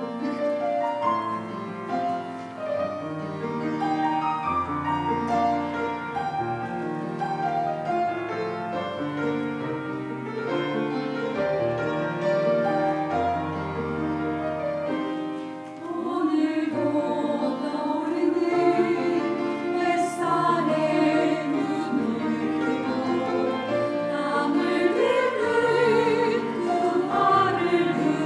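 Church choir anthem with piano: a piano introduction of held chords, then the choir comes in a little past halfway and sings over the piano accompaniment.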